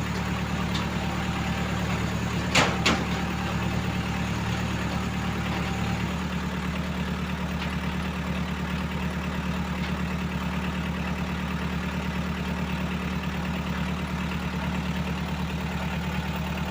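A vehicle engine idling steadily, with two sharp knocks about two and a half seconds in. Its low note changes slightly about six seconds in.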